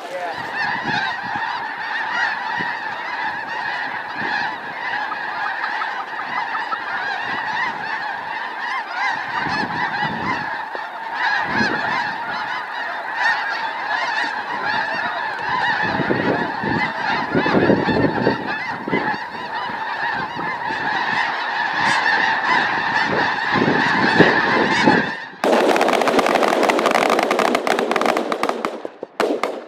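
A large flock of snow geese calling in a dense, continuous chorus of honks. About 25 seconds in it gives way abruptly to a loud, steady rushing noise.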